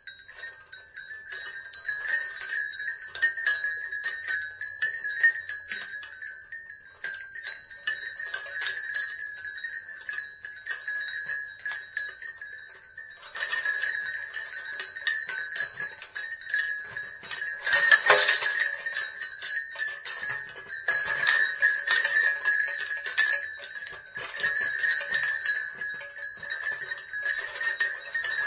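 Small metal bells ringing continuously with dense, rapid strikes over a steady ringing tone, growing louder about halfway through.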